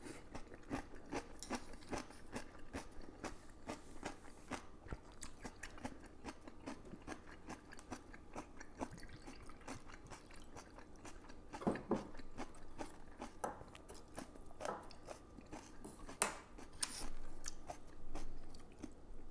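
A person chewing crunchy food close to the microphone, with a steady run of small irregular crunches and a few louder bites.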